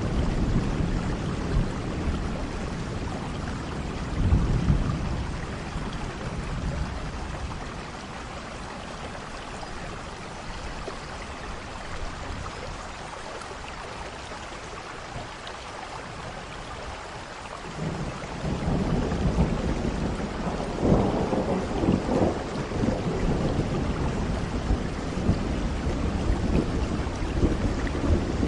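Steady rain with thunder rumbling low in the background. One swell of rumble about four seconds in, a quieter stretch in the middle, then a longer, louder rolling rumble from about two-thirds of the way through.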